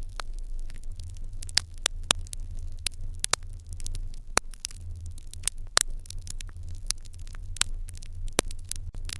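Wood fire in an irori hearth crackling: irregular sharp pops and snaps, a dozen or more, over a low, steady rumble.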